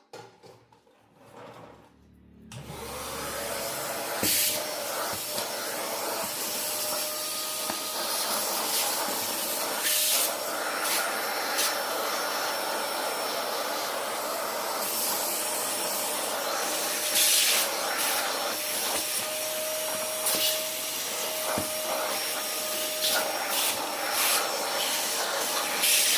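A vacuum cleaner switches on about two and a half seconds in and runs steadily, with short louder surges now and then as it cleans dirt out of the TV.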